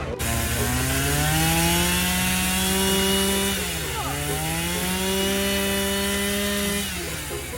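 Two-stroke chainsaw engine revving up to high speed and holding there, dropping briefly about halfway, then revving up again and holding before it cuts off near the end.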